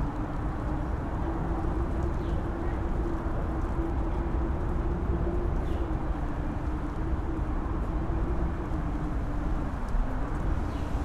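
Strong wind on an open mountain top, rushing steadily and howling on one wavering note that dips in pitch near the end and then climbs again.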